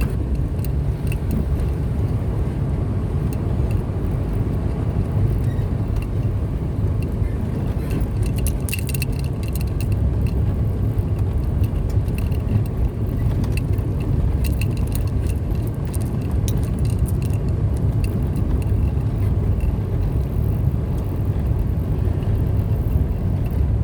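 A car driving, its engine and tyres making a steady low rumble, with scattered light ticks and rattles through the middle.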